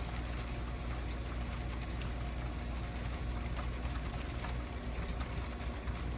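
An engine running steadily with a low hum, under an even hiss with faint irregular ticking.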